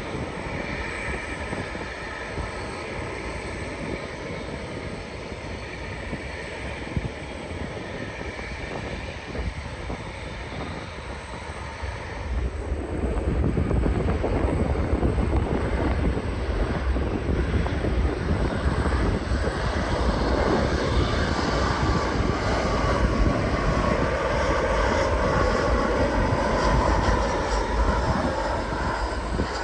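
Jet airliner's engines passing on approach to landing: a whine with a rumble under it, growing clearly louder and deeper about twelve seconds in and staying loud.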